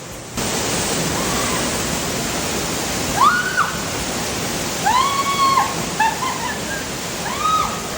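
Waterfall pouring: a steady rushing hiss that starts suddenly near the beginning. Several short, high-pitched calls rise and fall over it, from about three seconds in to near the end.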